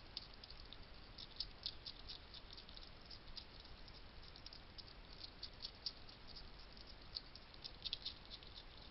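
Wild hedgehog eating dry food at a feeding station: faint, quick, irregular crunching clicks, several a second.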